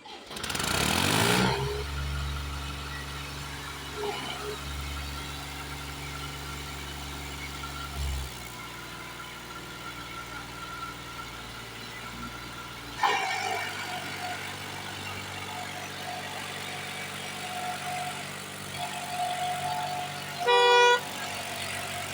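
Tractor engine running with a steady low hum. It opens with a loud rush in the first second or so, and its note shifts about 8 and 13 seconds in. A short horn honk sounds near the end.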